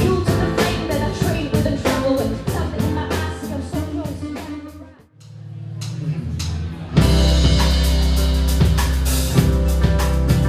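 Live rock band music with drums, guitar and bass. About halfway through the playing drops away almost to nothing, a low bass note swells up, and the full band comes back in loudly about two-thirds of the way through.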